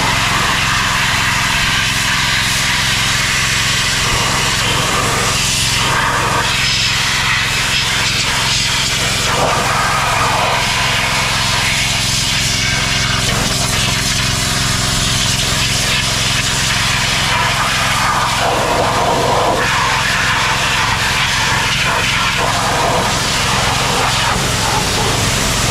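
Engine-driven pressure washer running steadily while its water jet hisses against caked mud on a tractor. The spray noise swells and fades as the jet moves over different surfaces.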